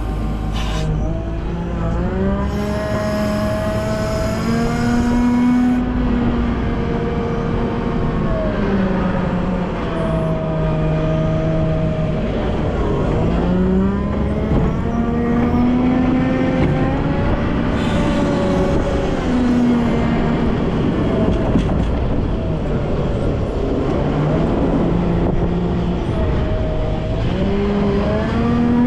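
Volvo L90F wheel loader's diesel engine working under load, its revs climbing and falling back again and again as it pushes and lifts snow.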